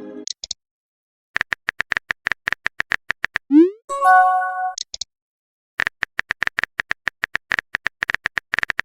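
Phone keyboard typing sound effect, quick clicks at about six a second, in two runs. Between them a short rising swoop and a brief electronic chime sound, the send and receive tones of text messages.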